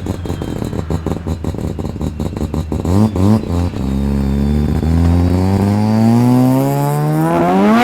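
Mazda rotary-engined car pulling away: a rapid, choppy pulsing at low revs with a couple of quick rev blips, then from about four seconds in one long hard acceleration with the engine note rising steadily, the revs dropping sharply right at the end.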